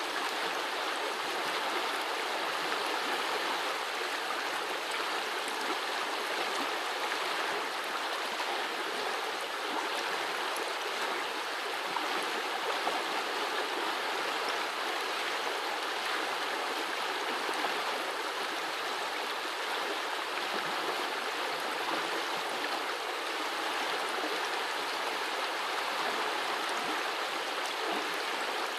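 Small forest brook running, a steady burble of water flowing over stones.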